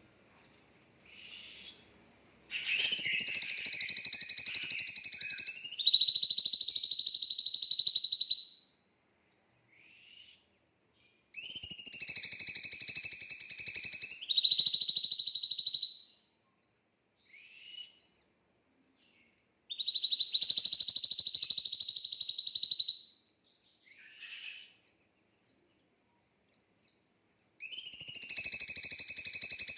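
A songbird's long call repeated four times, about every eight seconds: each starts as a rough two-pitched note and steps up into a steady high whistle, with a few short faint chirps between. This is masteran audio, a bird-song recording played to teach caged songbirds.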